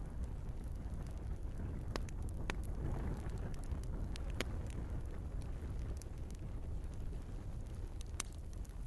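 Wood fire burning in a fireplace: a steady low rumble of the flames with scattered crackles and sharp pops, the loudest pops about two and four seconds in and near the end.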